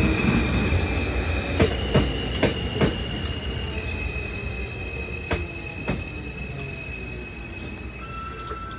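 New York City subway L train running away over the rails, with a high, steady wheel squeal and paired clicks as its wheels cross rail joints. The sound fades steadily as the train recedes.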